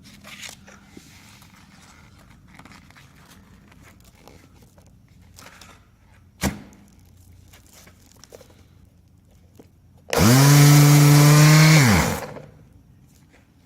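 Electric palm sander switched on briefly, its motor spinning up to a steady buzz for about two seconds and winding down as it is switched off, near the end. Before it, quiet handling sounds and one sharp knock.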